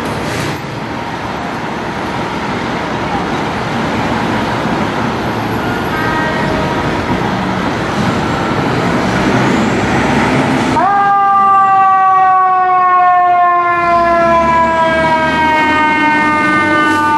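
Fire truck engine running and growing louder as it pulls out. About 11 s in, its siren starts, rising sharply in pitch and then slowly falling, then rising again near the end.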